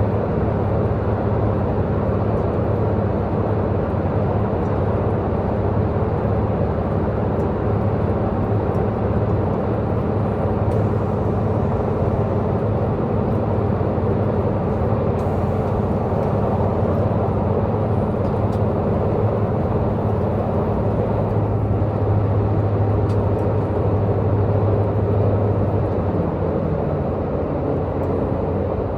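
Diesel engine of a Taiwan Railways diesel multiple-unit Tze-Chiang express working steadily under way, a loud low drone mixed with wheel and rail rumble, heard from inside the carriage. The low drone eases a few seconds before the end.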